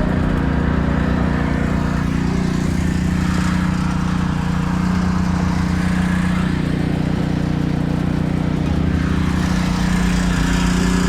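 A small engine running steadily, with a constant hiss like water spray over it.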